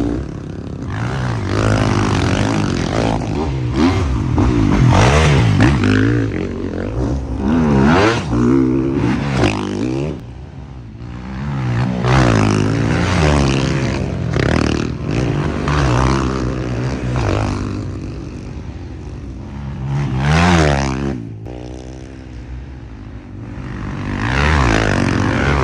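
Off-road motorcycle engine revving up and down over and over as it is ridden, with the pitch rising and falling every second or two and quieter stretches about ten seconds in and again around twenty seconds in.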